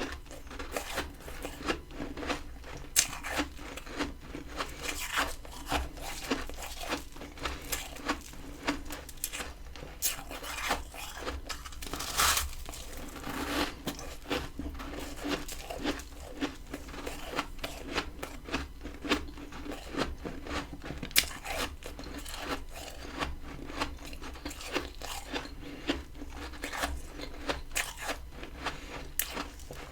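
Close-up crunching of freezer frost being bitten and chewed: a dense run of crisp, irregular crunches and snaps, with a few sharper bites standing out, about three seconds in, twelve seconds in and twenty-one seconds in.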